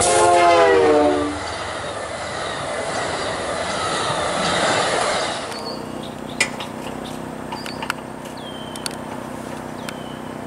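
Diesel locomotive air horn sounding a chord that stops about a second in, its pitch sagging as the engine comes by, then the rumble of the passing train. About halfway through the sound changes abruptly to a quieter steady hum with scattered sharp clicks.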